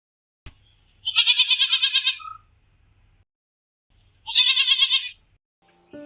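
A goat bleating twice, each call about a second long with a fast quaver, the second a few seconds after the first.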